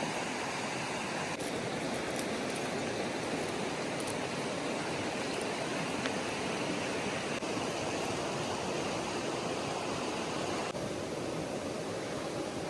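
Rushing river water, a steady rush from a river running high after heavy rain.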